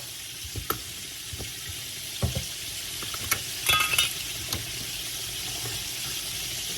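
Chicken wings frying in hot oil, a steady sizzle, with a few sharp metallic clicks and a brief ringing clink about halfway through from utensils or cookware.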